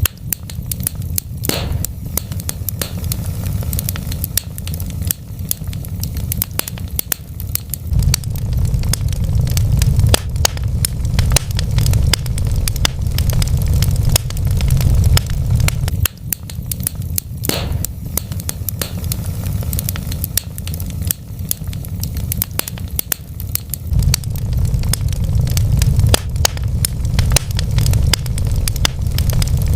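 Wood fire crackling, with frequent sharp pops over a steady low rumble; two louder pops stand out, about a second and a half in and again about seventeen seconds in.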